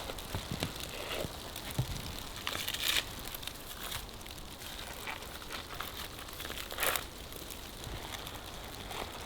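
Footsteps crunching through snow, with scattered small crunches and two louder crunches about three and seven seconds in.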